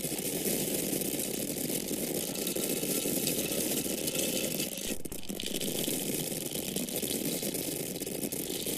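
Dry grains falling in a steady, dense stream: a continuous rattle of many small impacts, with a brief break about five seconds in.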